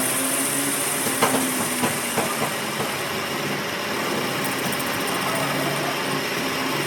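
Steady mechanical running noise with a low hum, and a handful of sharp clicks between about one and three seconds in.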